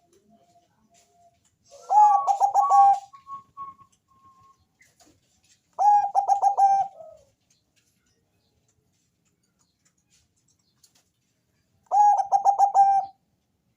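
Bangkok-type zebra dove (perkutut) singing: three rapid, pulsed cooing phrases of about a second each, spaced several seconds apart, with faint single notes in between.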